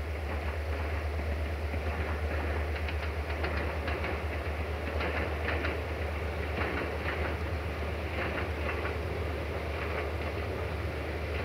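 Diesel passenger train running and approaching, with a steady low engine drone and bursts of wheels clicking over rail joints through the middle of the stretch.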